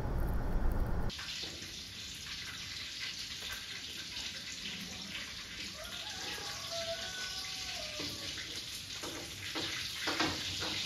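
Pork frying in a wok on a gas stove: a steady sizzle that starts suddenly after a second of low rumble, with a few clattering knocks near the end.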